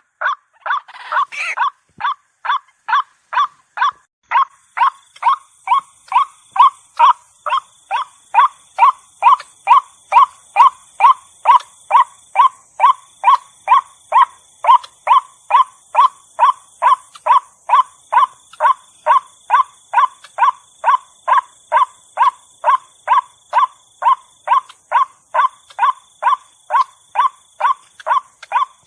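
Female white-breasted waterhen calling: a long, steady run of short repeated 'wak' notes, about two a second, the call used to lure the birds out.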